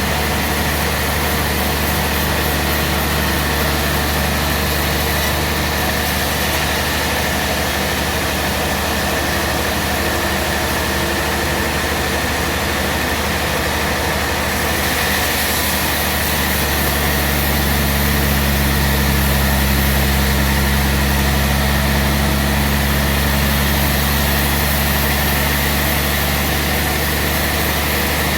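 Band sawmill running steadily: a low machine drone with a steady high whine above it. The drone grows fuller and slightly louder a little past halfway through.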